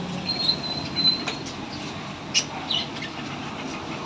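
A bird's thin, high, steady whistle held for about a second, then a sharp click and a few short high chirps a little past halfway.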